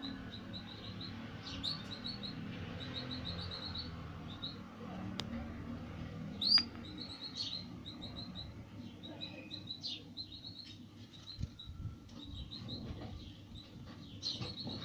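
A small bird chirping in quick runs of short, high, evenly repeated notes, broken now and then by a sharper rising call.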